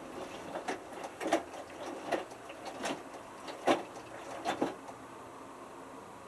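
Hotpoint Futura HF8B593 washing machine drum tumbling a small load of three t-shirts, with a run of short knocks and swishes under a steady hiss. The tumbling stops about five seconds in, leaving only the hiss.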